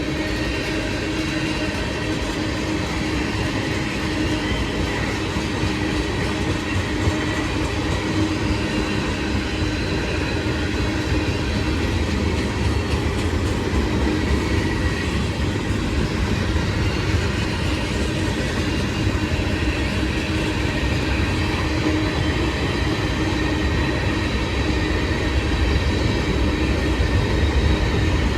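CSX freight train's cars rolling past, steel wheels running on the rails in a steady heavy rumble that grows slightly louder toward the end.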